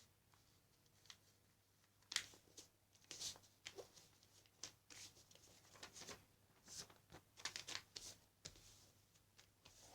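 A sheet of paper being folded and creased by hand into a paper airplane: faint, scattered rustles and crackles, the sharpest a little over two seconds in.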